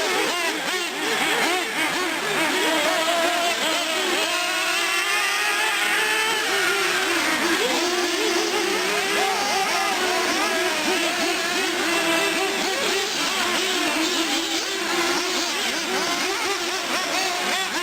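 Several nitro-powered 1/8-scale R/C trucks and buggies running together, their small two-stroke glow engines revving up and down and overlapping without a break.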